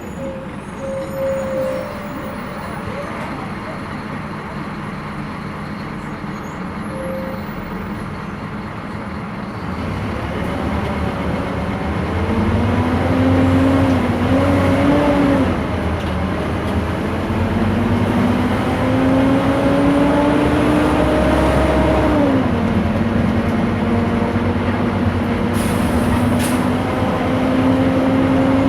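Scania K230 bus engine and ZF automatic driveline running low and steady, then pulling away: a whine climbs in pitch, drops suddenly about two-thirds of the way through as the gearbox shifts up, then climbs slowly again. A brief air hiss comes near the end.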